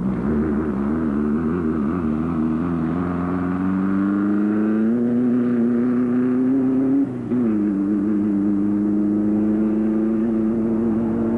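Off-road race vehicle's engine running under load. Its pitch wavers at first, then climbs over several seconds. About seven seconds in it drops sharply and settles to a steady lower pitch.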